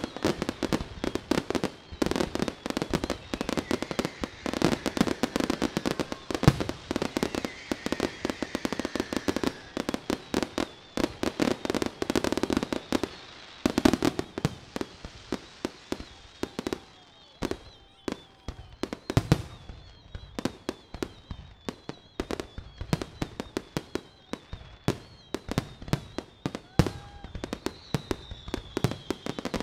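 Fireworks display: aerial shells bursting in rapid, overlapping succession with dense crackling. The bangs come very thick for the first half, then somewhat sparser, with a thin wavering whistle over them in the second half.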